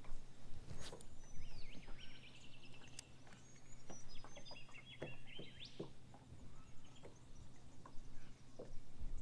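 Birds calling: a run of short chirps and quick trilled notes in the first half or so, over a steady low hum, with a few sharp clicks.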